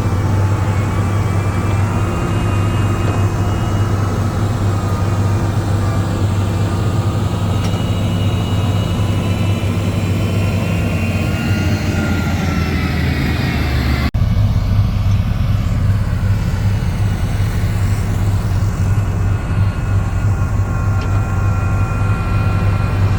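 Heavy earthmoving machine's diesel engine running steadily, with thin whining tones above the drone that drift in pitch. The sound breaks off abruptly about fourteen seconds in and carries on with the same steady drone.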